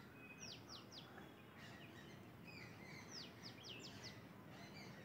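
Faint bird calls: quick, high chirps that sweep downward in pitch, in short runs of two to four, about half a second in and again around three seconds in, over a low steady outdoor background noise.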